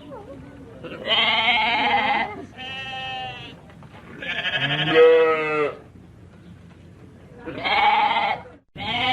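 Sheep bleating: four long, wavering bleats about a second each with short gaps, the third the loudest, and another bleat beginning right at the end.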